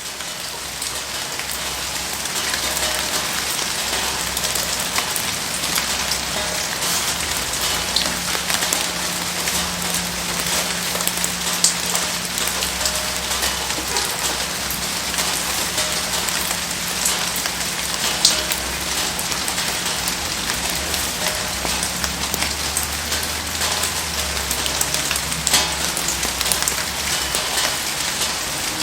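Heavy rain falling steadily, with many scattered sharp ticks and pops. It fades in over the first couple of seconds.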